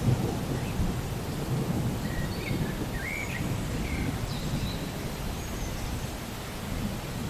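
Outdoor ambience: a steady low rumbling noise, with a few faint bird chirps a couple of seconds in.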